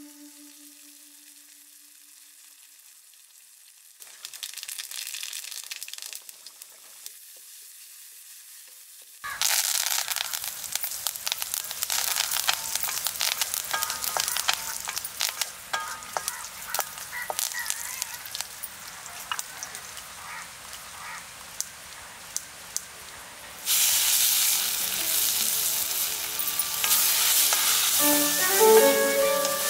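Hot oil in an iron wok sizzling loudly as ingredients drop in about a third of the way through, with crackling pops and a wooden spatula stirring. The sizzle grows louder again about three-quarters through.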